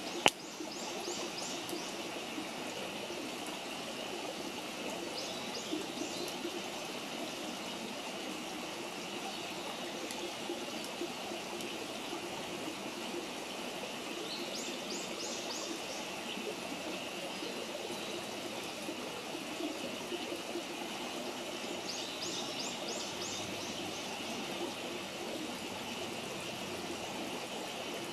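Wood campfire burning with a steady crackle and one sharp pop right at the start. A bird sings a short, rapid run of high notes five times, every five to eight seconds.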